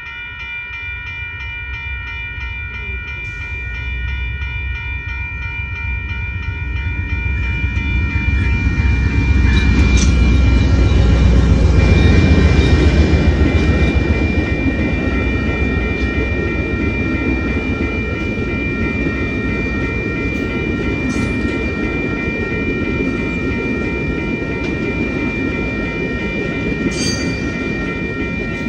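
Railroad crossing bell ringing steadily as a bilevel passenger train passes. The train's rumble builds to its loudest about twelve seconds in, then fades slowly, with a few sharp clicks along the way.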